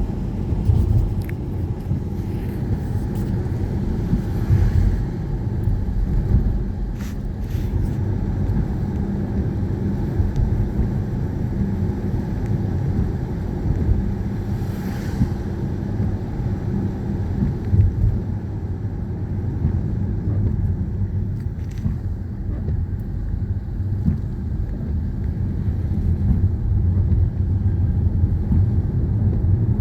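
Steady low rumble of a car driving, engine and tyre noise heard from inside the cabin, with a few faint brief clicks.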